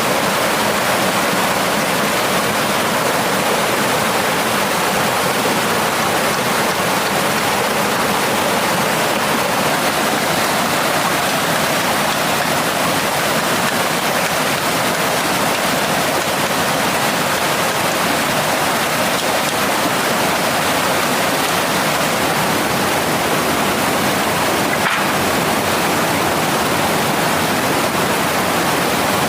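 Mountain stream water rushing steadily, with one brief click near the end.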